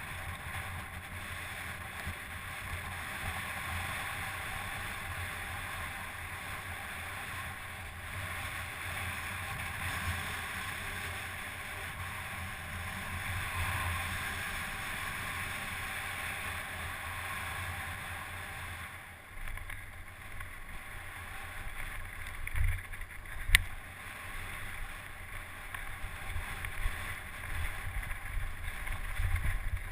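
Steady rushing noise of wind buffeting the microphone over an uneven low rumble, with one sharp click about 23 seconds in.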